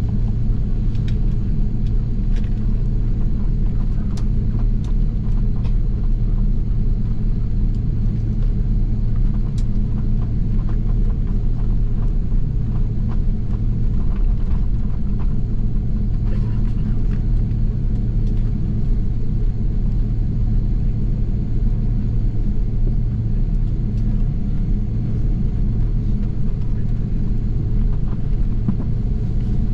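Steady low rumble inside the cabin of an Airbus A330-300 on the ground before takeoff, its engines running at low power with the cabin air system, holding an even level throughout, with a few faint ticks over it.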